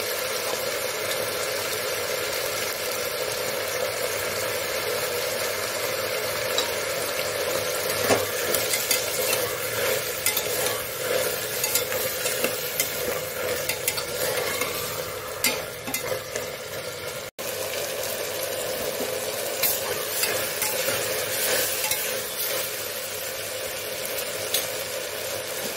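Black-eyed peas, chopped tomato and onion frying and sizzling in oil in a metal pot, with a steady hiss. A perforated steel spoon stirs them, scraping and clinking against the pot, most busily from about eight seconds in.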